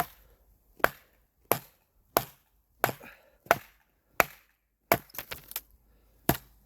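Small restored hatchet chopping into a piece of wood: about ten sharp strikes roughly two-thirds of a second apart, with a few lighter knocks together a little past the middle. It is a test of whether the newly wedged head stays tight on the handle.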